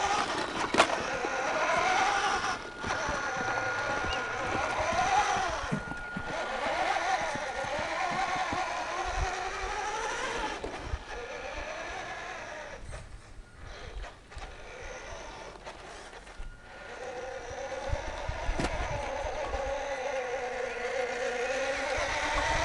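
1/6-scale radio-controlled Dodge WC52 model truck driving, its drive whine rising and falling in pitch as it speeds up and slows. The sound drops lower for a few seconds past the middle, and there is a sharp click about a second in.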